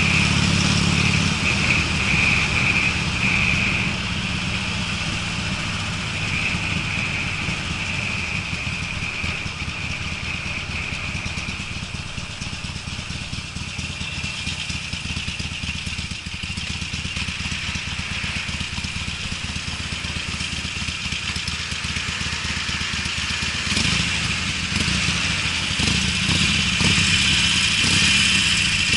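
Harley-Davidson Sportster's 45-degree V-twin, fitted with Screamin' Eagle mufflers, running under way. The engine note eases off about four seconds in and rises again near the end.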